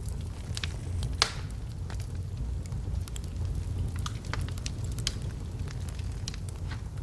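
Wood fire burning in a fireplace: a steady low rumble with irregular sharp crackles and pops from the logs, the loudest pop about a second in.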